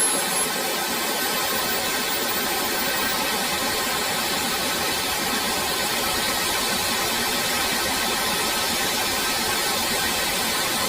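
Small see-through turbojet engine running steadily at a constant speed, a continuous noise with a steady tone.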